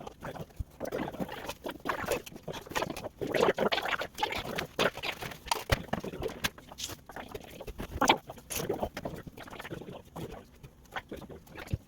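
Hands working with popsicle sticks and craft materials: irregular small clicks, taps and rustling as the pieces are handled and fitted together.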